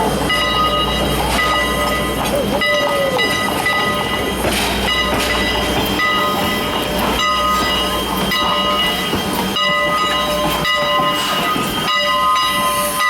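Train running on the rails, with a steady mix of tones and rolling noise and a few short squealing glides in the first three seconds.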